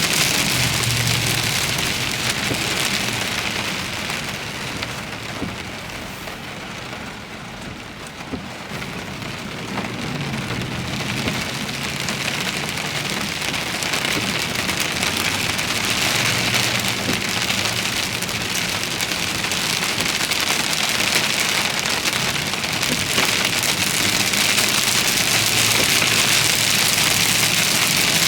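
Heavy thunderstorm rain pouring down steadily. It eases somewhat about a quarter of the way in, then builds back up to full strength.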